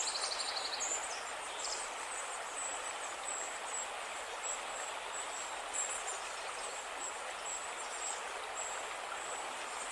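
Nature ambience: a steady rush like a flowing stream, with short high chirps repeating throughout and a brief trill at the start.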